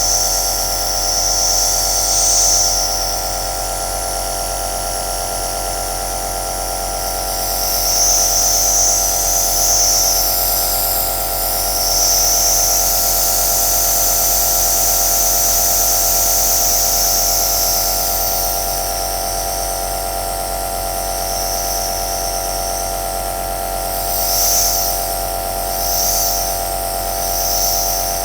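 Compressor nebulizer running: a steady electric motor buzz with the high hiss of air and mist from the nebulizer cup, which swells and fades, in quicker pulses near the end.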